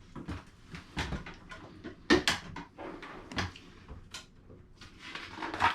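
Objects being handled: a series of irregular knocks and light clatters, roughly one a second, the loudest about two seconds in and just before the end.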